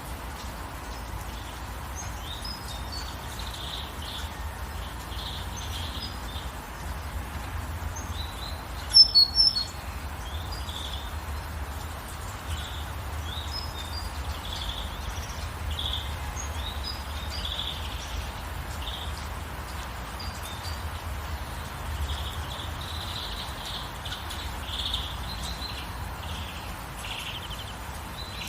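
Small songbirds chirping and singing on and off over the steady soft hiss of gentle rain, with a brief loud burst of three or four sharp calls about nine seconds in.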